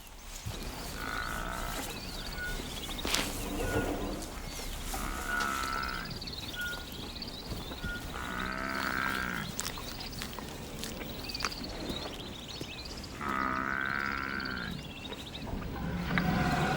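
An animal calling repeatedly: about six drawn-out, bleat-like calls, each about a second long, with a high chirping going on behind them.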